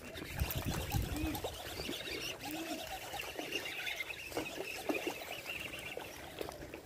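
Birds calling in short, curved chirps over a steady high chatter, with scattered light clicks and a few low knocks in the first second.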